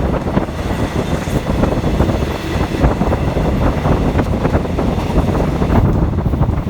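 Passenger train running: a steady low rumble with continuous rattling, and wind buffeting the microphone.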